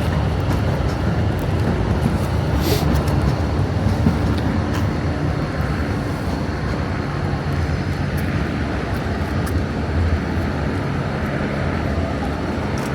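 Electric suburban train running steadily at a platform, a continuous low hum and rumble with a few faint clicks.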